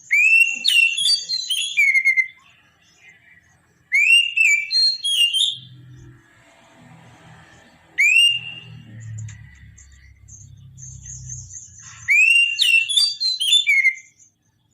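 Oriental magpie-robin (kacer) singing loud, clear whistled phrases, four of them about four seconds apart. Each opens with a rising whistle and breaks into a quick run of varied notes; the third phrase is shorter.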